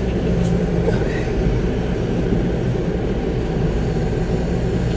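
Concrete mixer truck's diesel engine running steadily, heard from inside the cab as an even low rumble.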